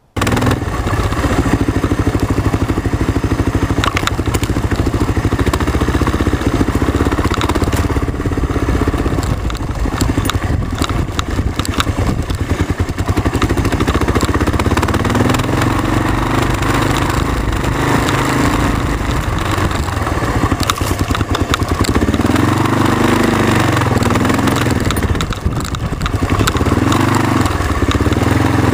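Kawasaki KLR650 single-cylinder four-stroke engine running under way on a rough trail, its revs rising and falling several times in the second half, with frequent knocks and rattles from the rocky ground.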